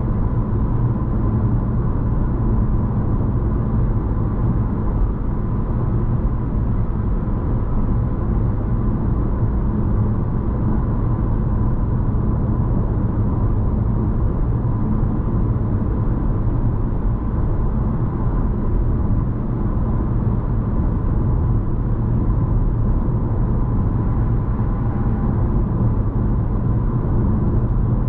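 Steady road and drivetrain drone inside a moving Honda ZR-V's cabin, an even low rumble with a faint constant whine above it.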